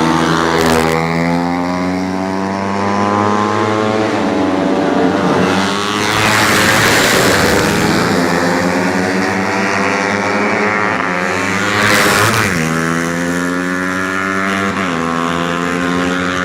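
Several 125 cc four-stroke underbone racing motorcycles at full throttle, their engine notes repeatedly climbing and dropping as they shift through the gears. The sound swells louder in the middle and again about three-quarters of the way through.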